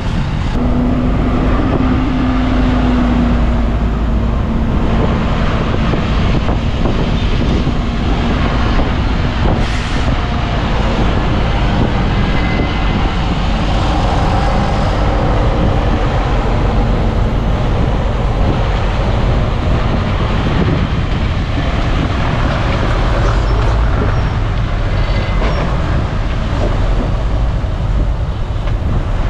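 Crawler bulldozer working: its diesel engine runs steadily under load while the steel tracks clatter, with a few short squeals near the end.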